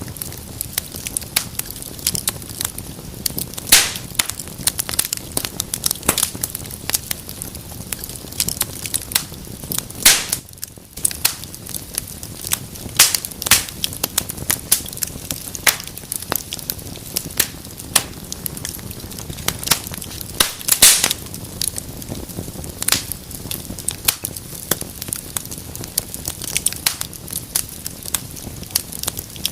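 Wood fire burning in a fireplace, crackling steadily with irregular sharp pops over a low rush of flame; a few louder snaps stand out, around four, ten, thirteen and twenty-one seconds in.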